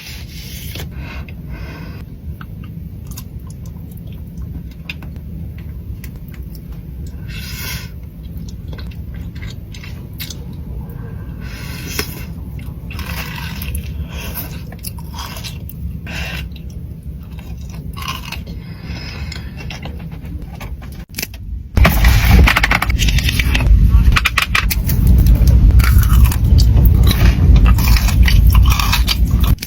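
Close-miked eating sounds of Dubai chocolate: scattered crunches and mouth clicks over a low steady hum. About two-thirds of the way through, a much louder burst of dense crackling and scraping sets in and continues.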